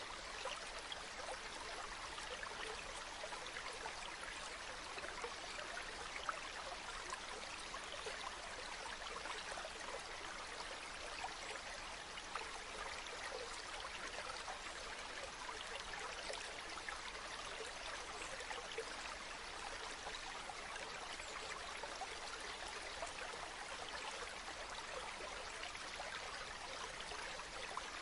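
Running water flowing steadily: an even rushing splash made of many small splashing flecks, with little deep rumble.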